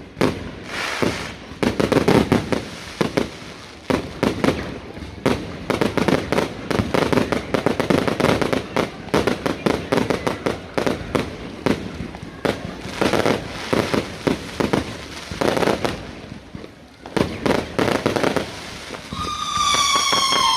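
Fireworks going off in quick succession: a dense run of bangs and crackles. Near the end, a long whistle slides slightly down in pitch.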